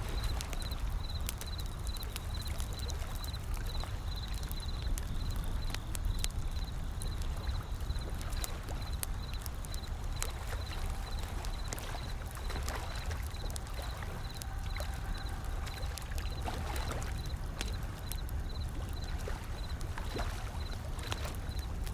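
Wood fire crackling with many sharp irregular pops over the steady low rumble of ocean waves. A faint high-pitched tone pulses about three times a second.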